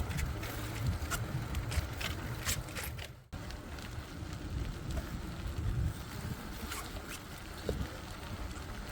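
Wind buffeting the phone's microphone and tyre rumble from a bicycle being ridden, with scattered light clicks and rattles in the first few seconds. The audio cuts out for an instant about three seconds in.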